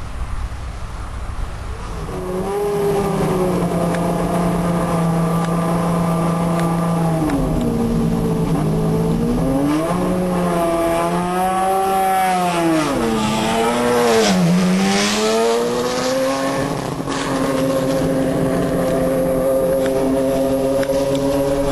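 Lamborghini Murciélago R-GT race car's V12 engine, coming in about two seconds in at a steady pitch, then falling and rising several times in the middle before settling into a slowly rising note.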